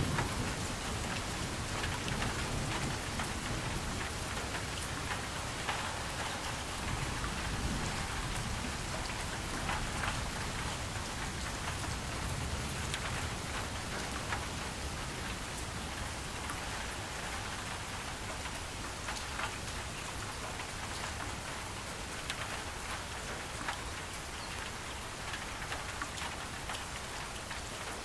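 Steady heavy rainfall with scattered drops pattering, and a low rumble of thunder dying away near the start.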